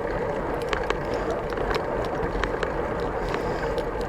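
BMX bike being ridden: steady tyre and wind noise with frequent small rattling clicks from the bike and its loosely mounted camera.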